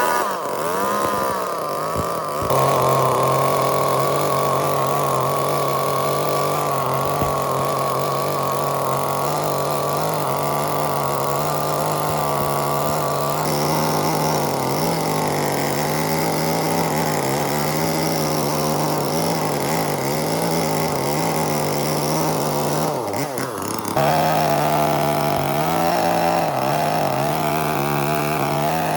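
A power tool runs steadily under load, its pitch wavering slightly as it works. The sound breaks and changes character about two seconds in and again a little after twenty-three seconds.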